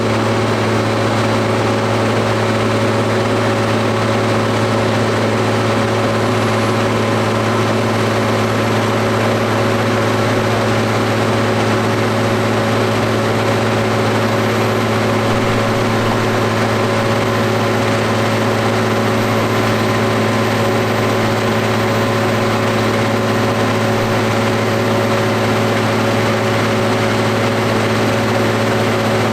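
McCormick X7.670 tractor's six-cylinder diesel engine running on a PTO dynamometer, held at a constant speed with a steady, unchanging note.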